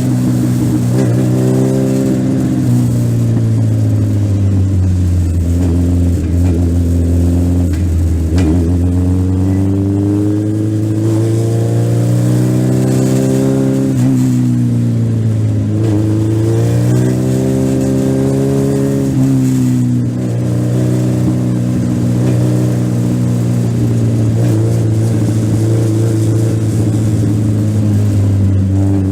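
Legend race car's Yamaha four-cylinder motorcycle engine at racing speed, heard on board. Its pitch falls and then climbs again several times as the car lifts off and accelerates back out of the oval's turns.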